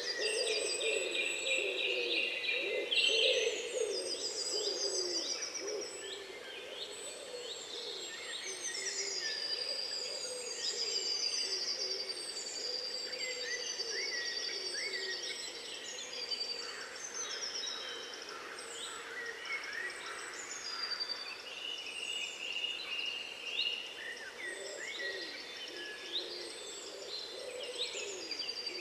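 Many songbirds singing and chirping together, an overlapping mix of quick rising and falling whistles and trills, with lower calls mixed in that are strongest in the first few seconds.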